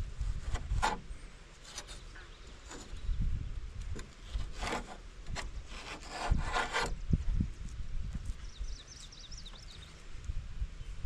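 Irregular scraping and rubbing strokes against wood, with a few low knocks in between.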